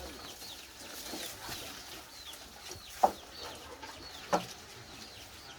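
Faint repeated bird calls, with two short, louder clucking notes, about three and four and a half seconds in.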